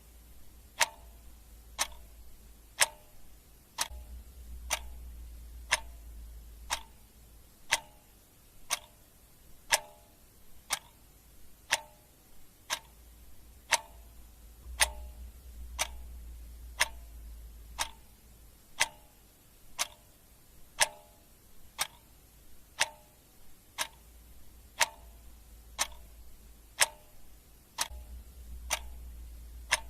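Clock ticking steadily at about one tick a second, each tick a sharp click, some with a brief ringing tone.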